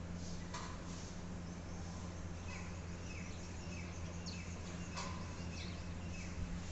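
Birds chirping: a series of short, falling chirps repeated roughly twice a second from about two and a half seconds in, with two sharper calls, one near the start and one about five seconds in, over a steady low hum.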